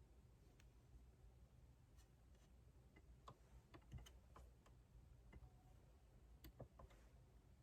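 Faint, irregular clicks and taps of desk work, keystrokes and pen on paper, over a low steady room hum.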